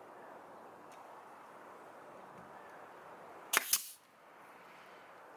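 Staple gun firing a staple into willow twigs on wood: one sharp double snap about three and a half seconds in, after a faint click about a second in.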